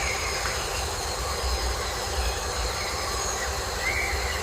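Rainforest ambience: a steady, dense high drone of the forest with a fluctuating low rumble underneath and a few faint short chirps.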